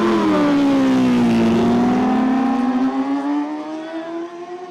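A superbike engine at high revs: its pitch dips, then climbs steadily as it pulls away, fading over the last couple of seconds.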